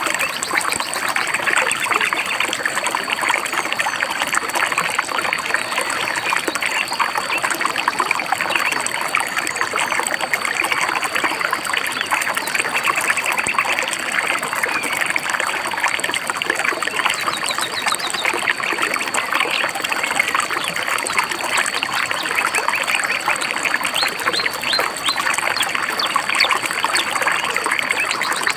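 A shallow stream or river babbling steadily over rocks, with a thin, steady high note running underneath. Birds chirp a few quick notes now and then, about halfway through and again near the end.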